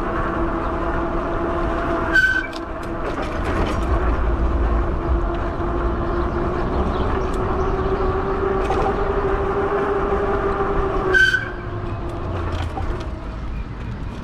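Fat-tire e-bike riding along, its motor whining at a steady pitch that climbs a little later on, over wind and tyre rumble. Two short, sharp high-pitched squeaks sound about two seconds in and again near the end.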